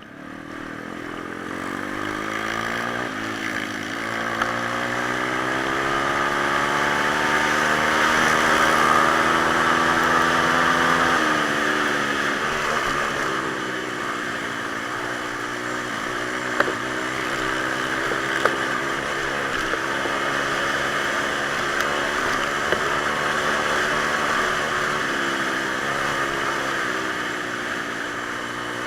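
Pit bike's small single-cylinder four-stroke engine running as the bike is ridden, its pitch rising and falling with the throttle. It grows louder over the first several seconds, with a few sharp ticks along the way.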